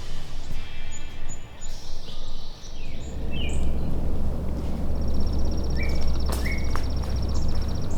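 Songbirds calling outdoors: short falling chirps, then a fast, even high trill lasting about three seconds in the second half. A steady low rumble sets in about three seconds in beneath them.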